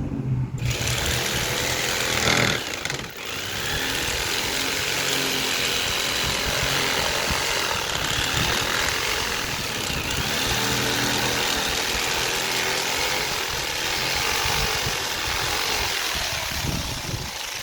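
Jigsaw cutting a curve through the wooden back of a chair: a steady saw noise that starts just after the opening, stops briefly about three seconds in, then runs on until shortly before the end.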